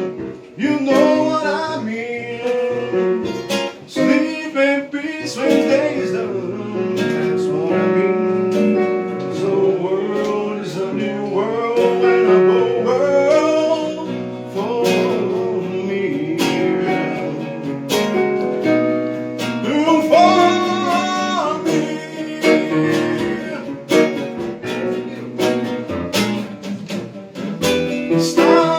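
Live acoustic guitar strummed, with a male voice singing over it in long, bending vocal lines.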